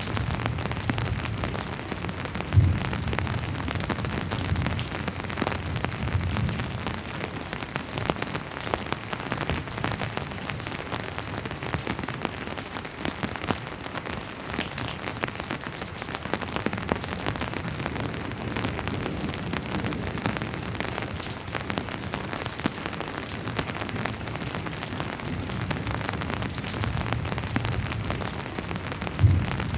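Steady rain falling on a surface, a dense even patter of drops. A low rumble swells and fades under it, and there is a brief low thump twice, about three seconds in and near the end.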